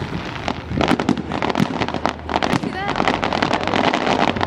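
Fireworks going off, a rapid run of sharp pops and crackles, strongest in the middle, with voices in the background.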